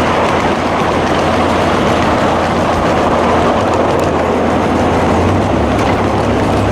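Train running by: a loud, steady rumble of a moving train with a low steady hum underneath that shifts slightly about five seconds in.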